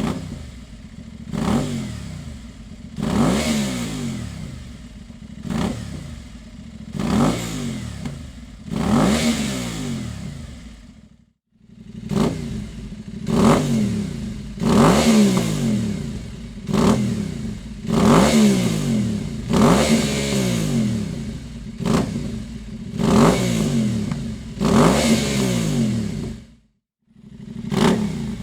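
Aprilia Tuareg 660's parallel-twin engine through a Dominator aftermarket exhaust, revved in repeated quick throttle blips, each rev rising sharply and falling back, about one every second and a half to two seconds. The sound cuts out briefly twice, about 11 s and 27 s in.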